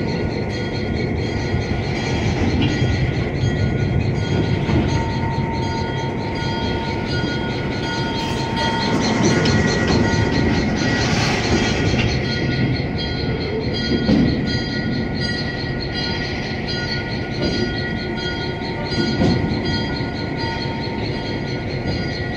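A passenger train rolls slowly behind ex-Army GP7L diesel-electric locomotive 1835, heard from on board. The locomotive's engine works under load against a steady rumble and rattle of the cars on the rails, with thin, steady high-pitched tones running through it.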